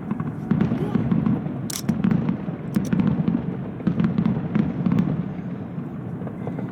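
Fireworks display: a rapid barrage of aerial shell bursts, low booms about twice a second with many sharp cracks and crackling over them.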